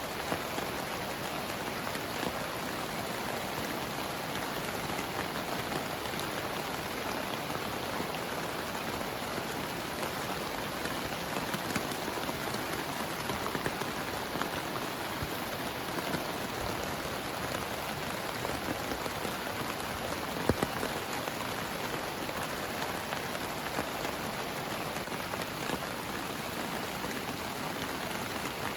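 Heavy rain falling steadily on a tent, a dense even hiss with scattered louder drop hits, one sharper hit about two-thirds of the way through.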